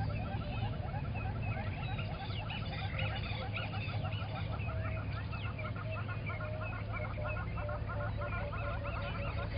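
Morning chorus of many wild birds calling together, a dense run of short, rapidly repeated chirping notes, over a steady low hum.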